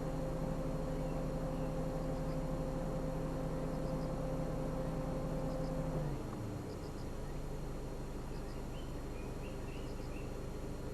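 Car engine running steadily, then easing off about six seconds in and running on at a lower, quieter pitch, with faint high chirps over it.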